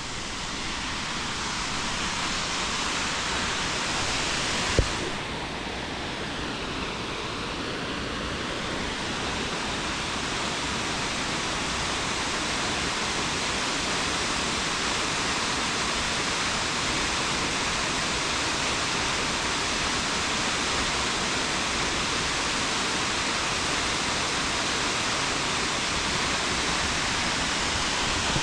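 Steady rush of the Akiu Great Falls waterfall, with one short click about five seconds in.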